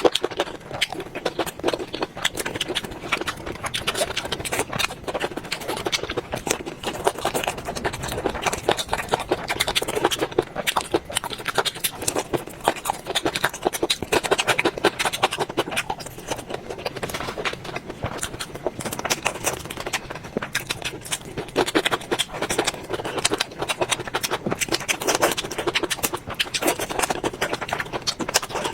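Close-miked eating sounds: a dense, continuous stream of crunching and wet chewing clicks.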